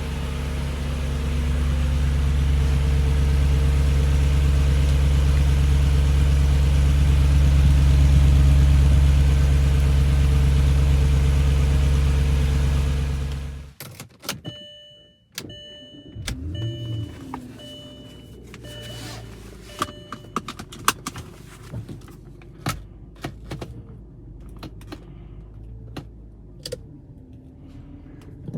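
1998 Audi A8's engine running steadily, then cutting off abruptly about halfway through. Afterwards come scattered clicks and knocks, a short run of repeated electronic beeps and a brief motor whir.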